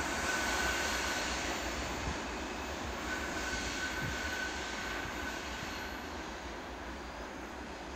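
Freight train of tank cars running on a curve, moving away: a steady rumble of wheels on rail and a distant diesel locomotive drone, slowly fading. A faint thin squeal of wheel flanges on the curve comes and goes.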